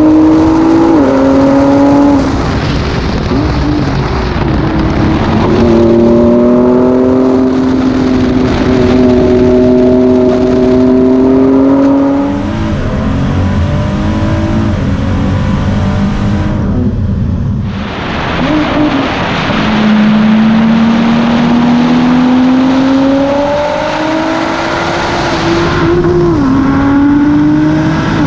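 Ford GT's 3.5-litre twin-turbo V6 under hard acceleration on track, its note climbing through each gear and stepping down at quick upshifts. A little past halfway it lifts off briefly, then pulls up through the gears again.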